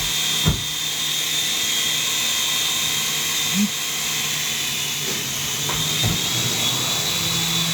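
Small electric RC helicopter hovering: a steady high motor whine over the hiss of the rotor, with a low hum that strengthens near the end and a couple of brief knocks.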